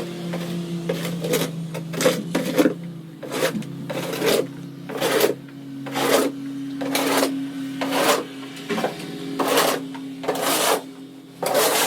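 Snow shovel scraping over pavement in repeated short strokes, about one a second, over a steady low hum.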